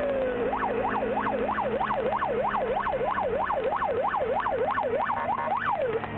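Police car siren: a slow falling wail that changes about half a second in to a fast yelp, rising and falling about three times a second, and stops near the end. A steady engine hum runs underneath.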